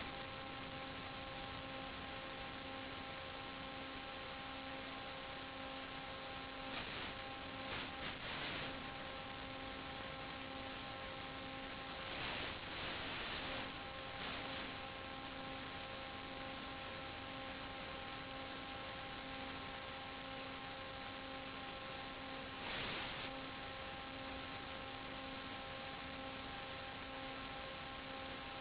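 Steady hiss with a constant droning hum, heard through an analog 5.8 GHz FPV video link. The hiss swells briefly into louder static a few times, the longest for about two seconds around the middle.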